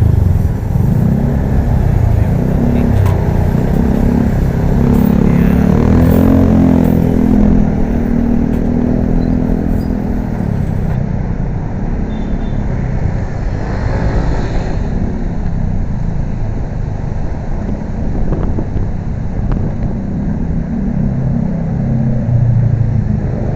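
Motorcycle ride in city traffic: steady engine and road rumble with wind buffeting the microphone, and vehicle noise swelling and fading about six seconds in and again near the middle.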